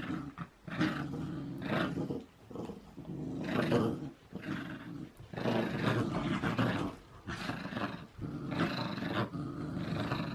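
A dog growling in a series of growls, each lasting up to about a second and a half, with short breaks between them.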